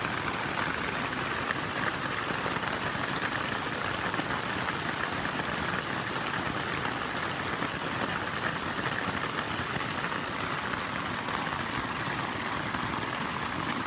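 Steady rain pattering on a tent's fabric, heard from inside the tent: an even, unbroken hiss of drops with no change in strength.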